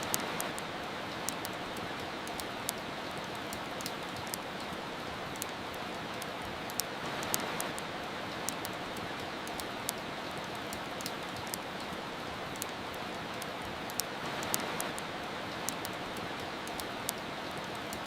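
Steady rain hiss with frequent sharp crackles and pops from a wood fire, swelling slightly twice.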